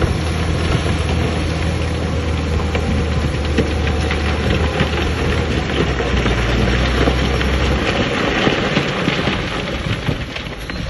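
Rocks tumbling and clattering in a dense, continuous crackle, over the steady low drone of a heavy diesel earthmoving machine. The clatter eases a little before the end, and the engine note changes.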